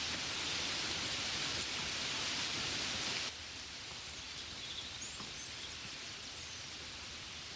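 Steady rain falling, an even hiss that drops abruptly to a softer level about three seconds in. A faint, short, high chirp sounds near the middle.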